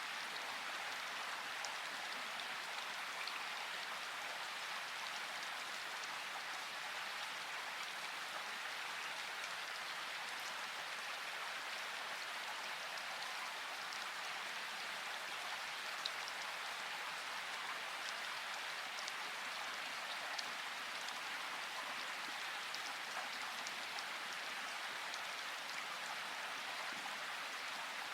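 Steady hiss of falling water, with faint scattered ticks.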